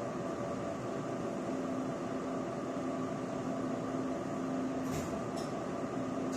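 Steady hum inside a stopped Chu-Kuang Express passenger car, the air-conditioning and electrical equipment running, with two faint clicks about five seconds in.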